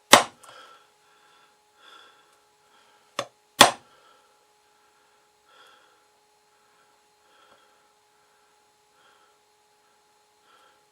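Two sharp taps about three and a half seconds apart, each just after a lighter click: a Phillips screwdriver tip struck into cardboard to press in recessed bolt heads, with faint handling rustle between.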